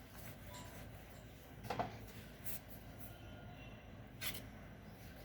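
Faint handling sounds of soft, kneaded wheat-flour dough being worked by hand, with two brief louder sounds, one near two seconds in and one near four seconds in.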